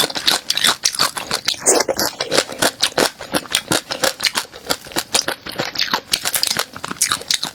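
Close-miked crunching and chewing of a crunchy food: a fast, irregular run of sharp crackles.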